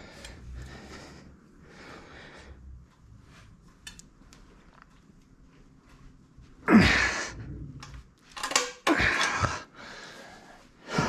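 A man's hard exhales and grunts from straining, in several short loud bursts in the second half, as he stretches a tight exhaust spring into place by hand.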